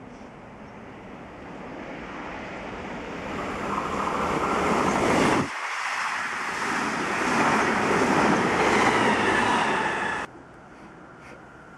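An electric passenger train passing at speed close by: a rising rush of wheels on rails and air, loudest as the carriages go past, with a faint whine over it. The sound cuts off suddenly about ten seconds in.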